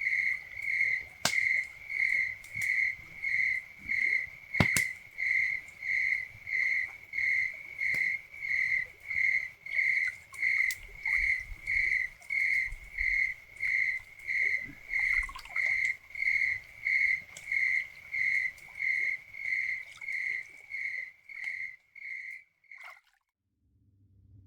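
A cricket chirping in a steady, even rhythm of about two chirps a second, with a couple of sharp knocks in the first few seconds. The chirping stops abruptly near the end.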